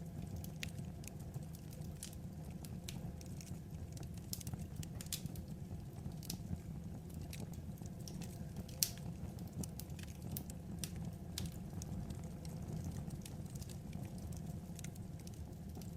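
Wood fire crackling: irregular sharp pops and snaps over a steady low rumble, with one louder pop about nine seconds in.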